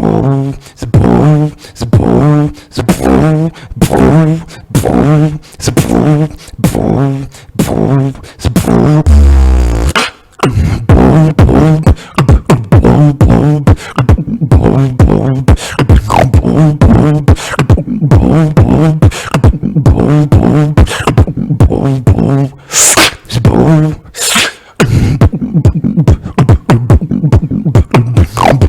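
Solo beatboxing: a regular run of pitched bass hums and vocal drum hits. After a deep low note about ten seconds in, it turns into fast, dense percussion with sharp hissing snares.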